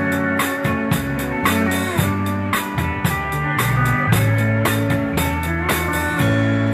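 Live Texas Czech dance band playing, with a steady drum beat under bass and held melody notes.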